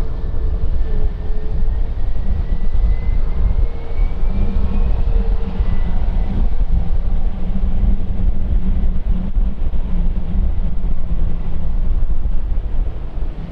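Jet airliner engines rumbling loudly as the plane passes, with a thin engine whine that rises slowly in pitch over the first few seconds.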